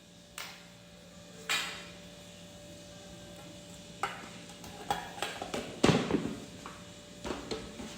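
Kitchen handling clatter: a scattering of sharp knocks and clinks of containers and utensils being set down and moved. The knocks are busiest and loudest about five to six seconds in, over a faint steady hum.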